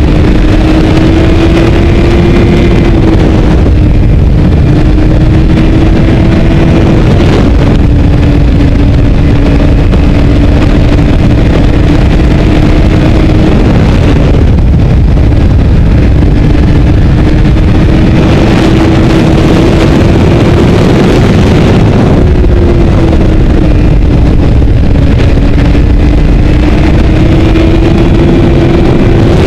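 Honda CBR600RR's inline-four engine running at high, fairly steady revs, its note rising and falling slightly as the bike rides through the bends, under heavy wind buffeting on the microphone.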